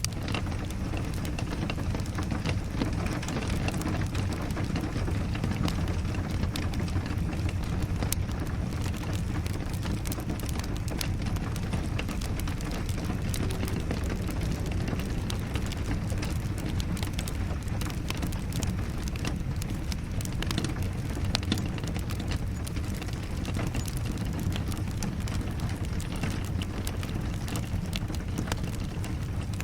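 Steady rain with a wood fire crackling, many small sharp pops over a continuous low rush.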